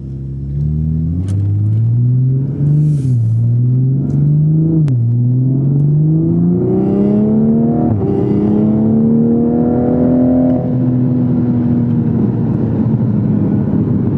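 Toyota GR Supra (MkV) with an aftermarket ETS exhaust accelerating hard, heard from inside the cabin. The engine note climbs and drops sharply twice with quick upshifts in the first five seconds, then rises through a long pull before levelling off near the end.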